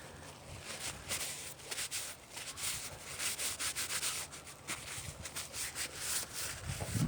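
Repeated gritty scraping and crunching in loose ground, in uneven strokes about two or three a second, over a faint low hum.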